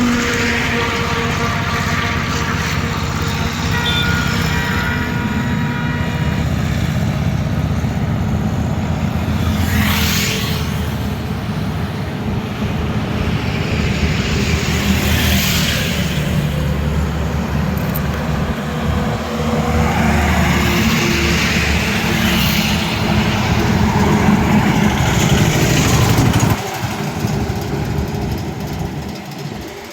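Highway traffic: heavy vehicle engines running with a steady low rumble, and trucks and cars passing close by one after another, each swelling and fading.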